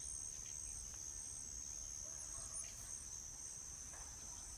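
A steady, high-pitched chorus of insects droning without a break, with a few faint bird chirps over it.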